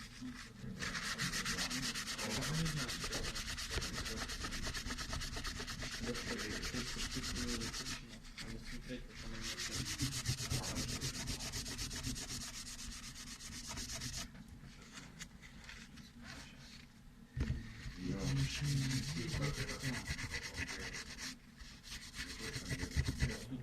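Fast back-and-forth rubbing strokes, a hissy rasp, in three long stretches separated by short pauses.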